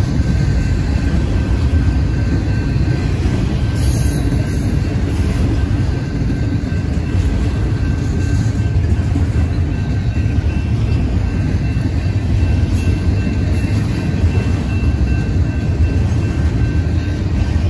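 Double-stack container well cars of a Union Pacific intermodal train rolling past: a steady, loud low rumble of steel wheels on rail, with a faint thin high tone held over it.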